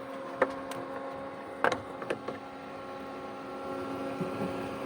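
Small electric fans of a USB personal air cooler, one of them an added 12-volt computer fan, running with a steady pitched hum. A few sharp clicks come in the first couple of seconds.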